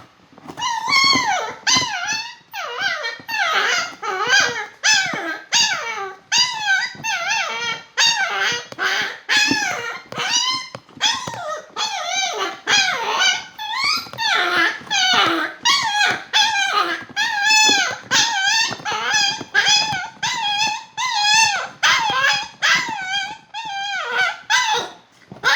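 Poodle whining and whimpering in a continuous run of short, high, wavering cries, about two a second.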